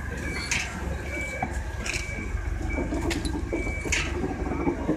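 Slow-moving electric train rolling by with a low rumble, its wheels clicking sharply over rail joints and points four times at uneven intervals. A short high tone repeats faintly in the background.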